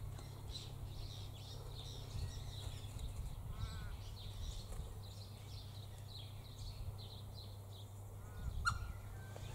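Red wattlebird calling: a scatter of short calls, with a sharper, louder call near the end.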